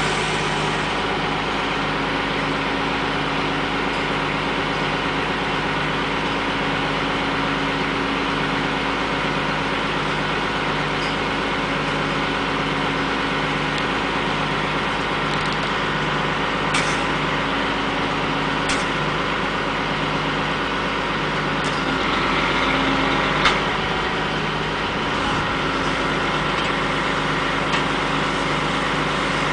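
A heavy machine's engine running steadily at an even speed, with a few short sharp clicks or knocks over it.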